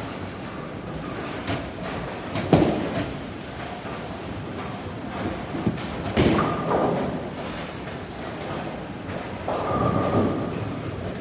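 Bowling alley noise: a heavy thud about two and a half seconds in, then two stretches of rumbling with clatter, around six and ten seconds in, over a steady din.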